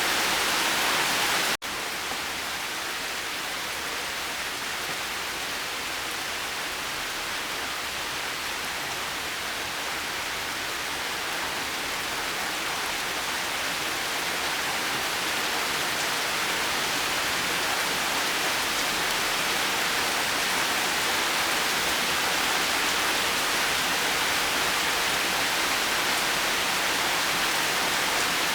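Steady rain falling, an even rushing hiss. About a second and a half in it cuts out for an instant and resumes a little quieter, then slowly grows louder again.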